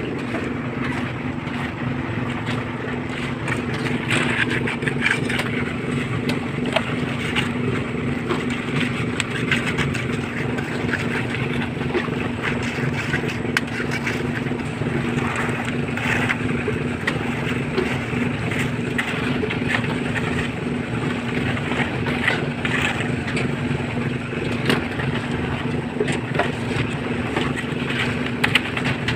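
Small concrete mixer machine running steadily with an even engine hum, over irregular scrapes and knocks of the concrete work.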